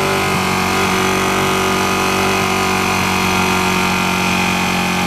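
Ducati 959 Panigale's L-twin engine running at a steady, unchanging note, mixed with a steady rush of wind or road noise.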